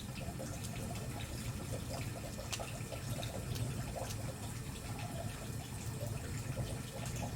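Wood campfire burning: a steady low rushing sound, with scattered sharp crackles and pops from the firewood, one clear pop about two and a half seconds in.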